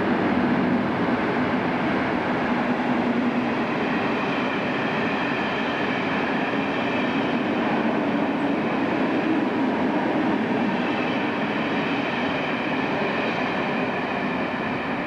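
Slam-door electric multiple unit running close alongside the platform: a steady rumble of wheels on rails with a low motor hum and a faint high whine, easing slightly near the end.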